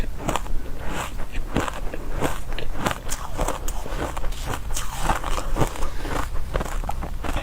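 Refrozen powdery ice being bitten and chewed close to the microphone: dense, soft, crunchy bites, several a second, without a break.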